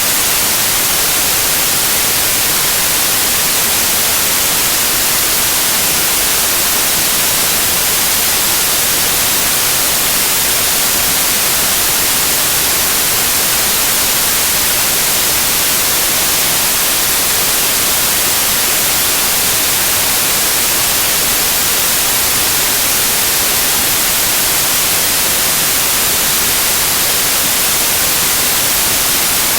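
Steady loud white noise: an even, unchanging hiss, brightest in the high end, with no pulses or changes.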